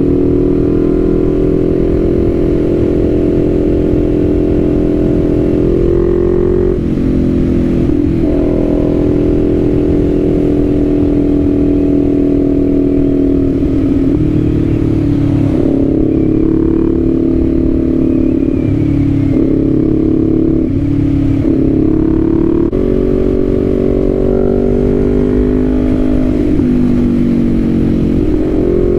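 2023 Kawasaki Z400's parallel-twin engine running at steady revs on the move. Its pitch drops and climbs again several times as the revs change.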